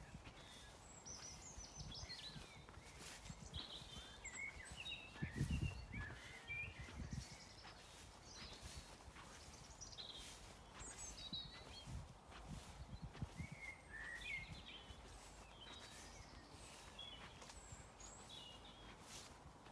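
Small birds chirping and singing on and off, faint, with footsteps in long grass and a few low thumps, the strongest about five to seven seconds in and again about twelve to thirteen seconds in.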